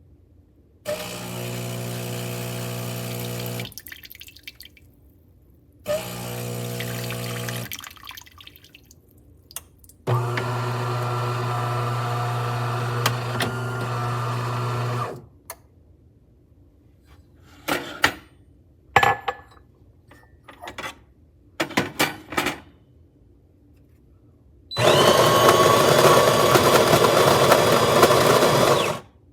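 De'Longhi Magnifica Start bean-to-cup espresso machine at work: its pump hums in three separate runs, the last about five seconds long, then come scattered clicks and knocks from the machine's mechanism. Near the end comes a louder, rougher noise of about four seconds.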